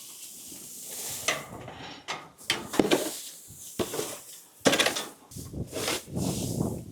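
Hanwoo cattle eating feed at a trough: irregular crunching, rustling and knocking.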